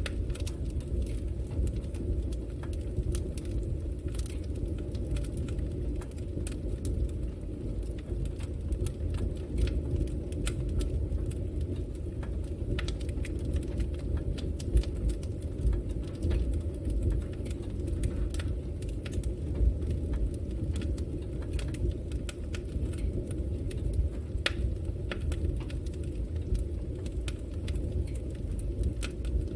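Fire burning in a fireplace: a steady low rumble of the flames with frequent small crackles and pops scattered throughout.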